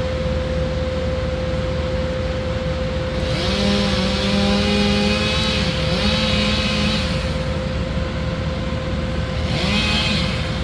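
Chainsaw revving in bursts: a long rev about three seconds in, then a shorter one, and a brief rev near the end, each rising in pitch, holding and dropping back. A steady engine hum runs underneath.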